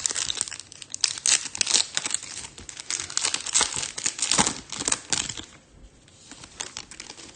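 A 2022 Topps Chrome F1 trading-card pack wrapper being torn open and crinkled, dense crackling for about five seconds, then dropping to a few faint ticks.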